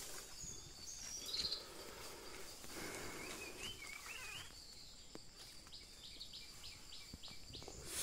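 Faint outdoor ambience with a few small bird chirps over it, then a quick run of high ticks about five to seven seconds in.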